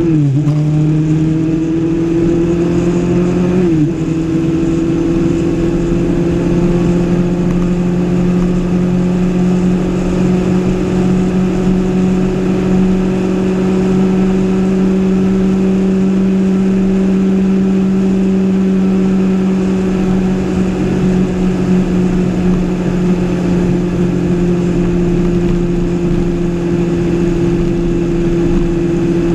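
2013 Kawasaki ZX-6R 636's inline-four engine heard from on board the moving bike. It shifts up right at the start and again about four seconds in, then holds a steady note while cruising.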